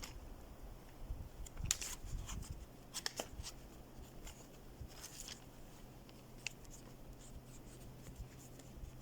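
Intermittent rustling, scraping and light clicks of hands handling gear, busiest in the first few seconds and thinning out toward the end, over a faint steady low hum.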